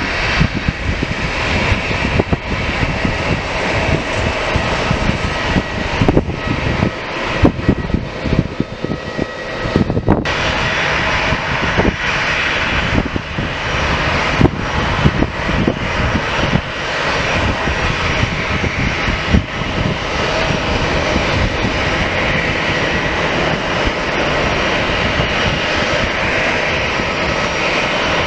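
Airliner engines running loud and steady: a dense rush of noise with a faint steady whine held in it.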